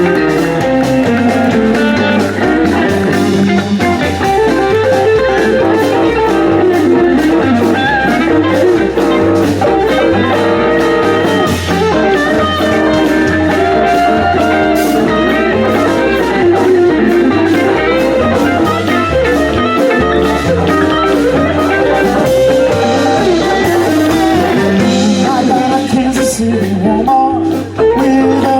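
Live blues band playing, with guitar to the fore over a steady bass line and drums.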